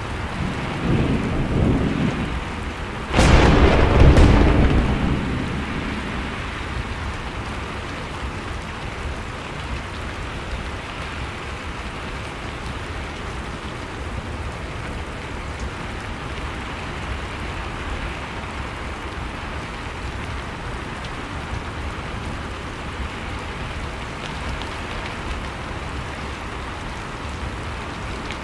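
Steady rain falling, with one thunderclap. A low rumble builds about a second in, then a sharp crack comes about three seconds in with a second crack a second later, and the rumble dies away within a few seconds while the rain goes on.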